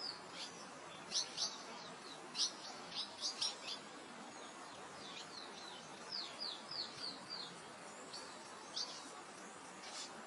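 Songbirds chirping in quick, high, sliding notes, in two busy clusters, over a steady hiss of wind through grass.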